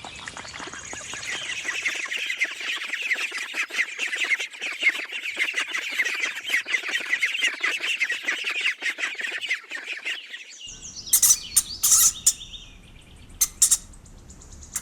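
A group of ducklings peeping in quick, overlapping, high-pitched chirps for about ten seconds, which cut off suddenly; a few separate sharp chirps follow near the end.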